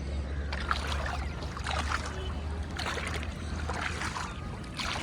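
Pond water splashing and sloshing in several surges as a long-handled fishing net is worked through it, over a steady low wind rumble.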